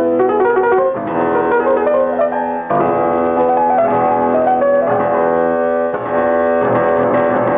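Keyboard music: a piano-like keyboard playing held chords that change every second or two.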